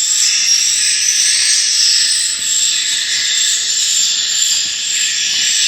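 Swiftlet calls: a dense, steady, high-pitched twittering with no breaks.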